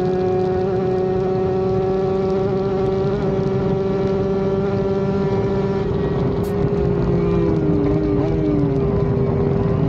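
Kawasaki Ninja RR 150's tuned 150 cc two-stroke single-cylinder engine running hard at high revs in sixth gear at about 150 km/h, with wind noise. About six seconds in, the engine note breaks up and its pitch falls as the revs drop.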